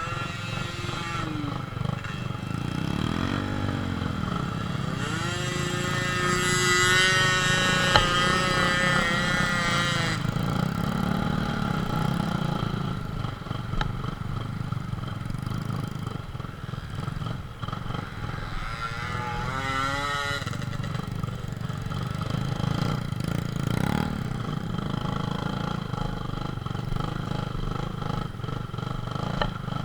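Small motorcycle engines running under load on a rough off-road track, their pitch rising and falling as the throttle is opened and closed, with louder revving a few seconds in and again past the middle. A single sharp knock about eight seconds in.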